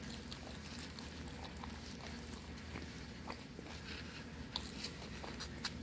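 Close-up chewing and biting while eating chicken salad on bread: small wet mouth clicks and crackles, with a few sharper clicks near the end, over a steady low hum.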